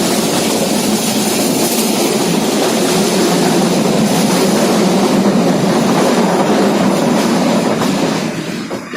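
Passenger train running, a steady loud rumble of wheels on rails that fades away near the end.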